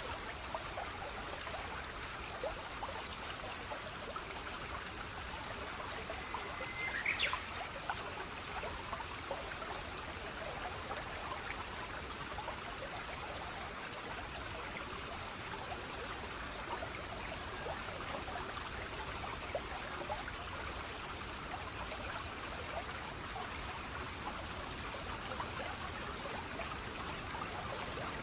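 Running water flowing and trickling steadily. A brief high sound cuts in about seven seconds in.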